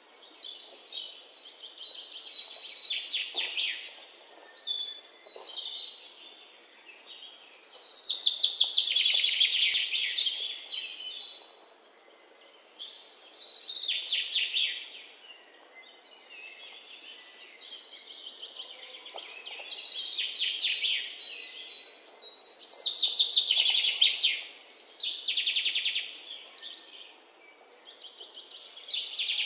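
Small birds singing: phrases of quick, high chirping notes, each a second or two long, repeating every few seconds over faint background noise.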